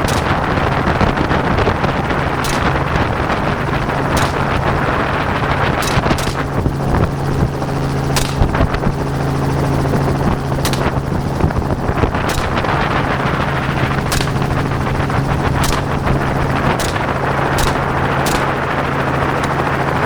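Helicopter rotor and engine drone running steadily, with about a dozen rifle shots fired from the helicopter at irregular intervals, a few seconds apart.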